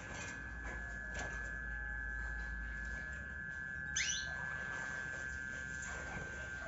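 Crested canary giving scattered short chirps, with one sharp sweeping call about four seconds in, over a steady high-pitched whine.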